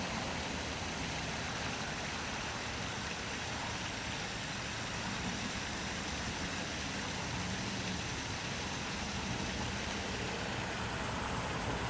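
Water pouring steadily over the rocks of a waterfall, an even rushing hiss, with a faint low hum underneath.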